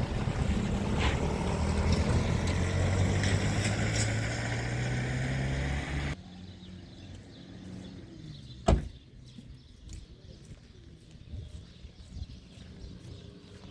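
A motor vehicle's engine running, its low tone slowly rising, then cutting off suddenly about six seconds in. After that it is much quieter, with a single sharp knock a few seconds later.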